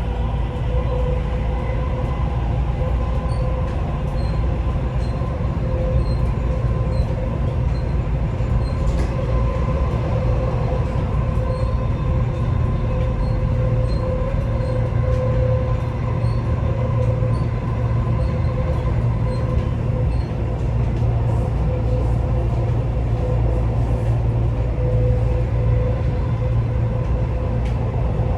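Dubai Metro train running between stations, heard from inside the carriage: a steady low rumble with a faint whine held at a constant pitch.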